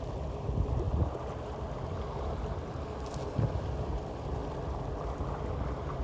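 Wind buffeting the microphone over a steady low rumble of water, with a few dull thumps about a second in and again past the middle.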